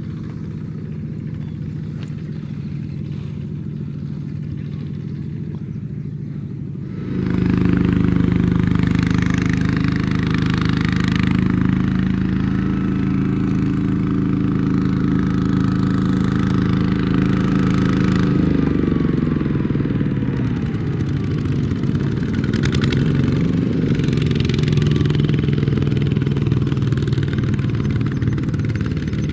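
Mini tractor engine running, first at a low steady speed, then revving up and working harder about seven seconds in. Its pitch sags for a few seconds past the middle, then it carries on steadily under load.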